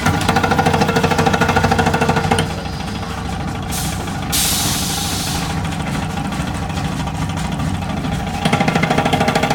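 Stainless-steel mesh panel end-trimming machine running with a steady motor hum. Twice it goes into a rapid, even pulsing for about two seconds, and a short burst of hiss comes between.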